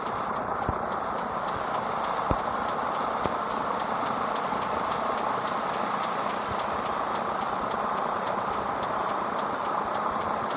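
Scania 113 truck's diesel engine running steadily with an even, unchanging note, with a regular light ticking a few times a second and a couple of faint low thumps.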